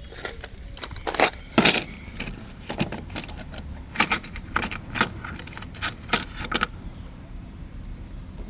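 Metal spanners clinking and clattering, a string of irregular sharp metallic clinks, as a mechanic handles wrenches to tighten a loose bolt.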